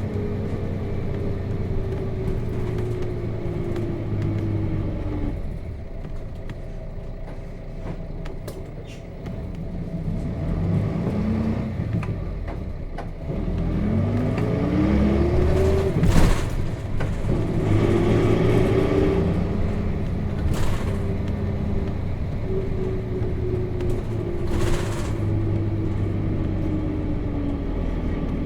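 Nissan Diesel FE6 inline-six diesel engine of a 1998 KC-RM211GSN route bus, heard from inside the bus. The engine note falls at first, then climbs several times in steps from about a third of the way in as the bus pulls through the gears of its five-speed manual, with a sharp knock about halfway. The note then falls slowly again near the end.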